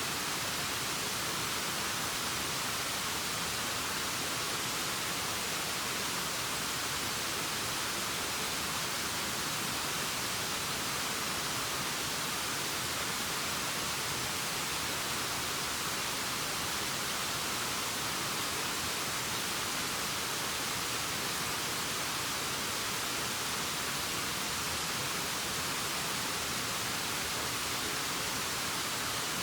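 Waterfall rushing steadily: an even hiss with no change in level.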